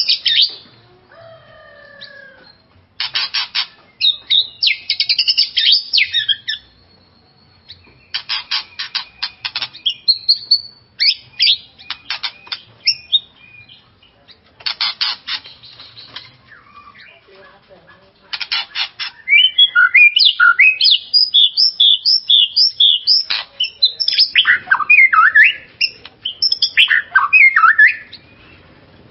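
White-rumped shama (murai batu) singing in loud bursts: runs of rapid rattling notes a second or several long, separated by short pauses, then from about two-thirds of the way in a long fast stream of varied whistled phrases.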